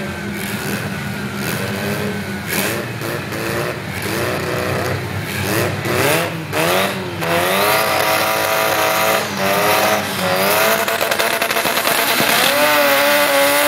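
Drag-race cars' engines revving on the starting line: the throttle is blipped in short rising-and-falling revs, then held at high, wavering revs from about halfway through, as the cars are staged just before launch.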